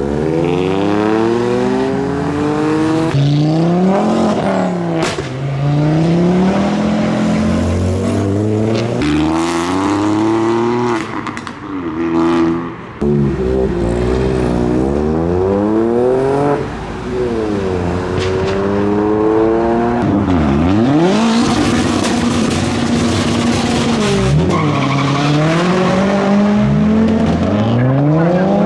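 Modified car engines being revved as the cars drive off, their pitch rising and falling again and again. Around three quarters of the way through, one engine holds steady revs under a rushing hiss.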